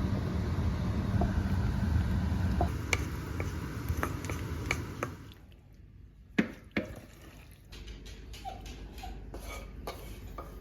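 Kitchen clatter: dishes and utensils clinking and knocking, over a low rumble for the first five seconds, then as separate knocks and clicks, two of them louder a little past the middle.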